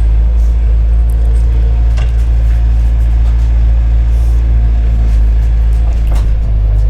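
Bobcat 751 skid steer's diesel engine running steadily with a loud, low rumble; its note shifts slightly near the end.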